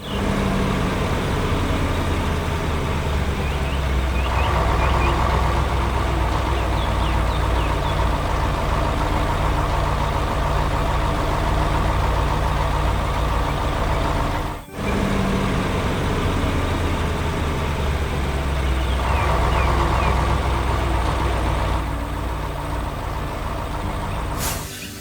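Excavator's diesel engine running steadily under load. The sound cuts out for an instant about halfway through, then carries on.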